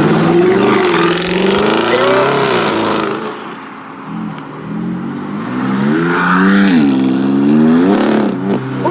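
A modified performance car's engine is revving loudly as the car pulls away. The revs ease off briefly about three seconds in, then the engine is revved up twice near the end.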